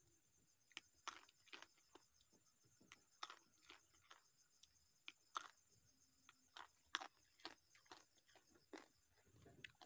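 Close-up crunching and chewing of raw takokak (turkey berries): sharp, irregular crunches, about one or two a second.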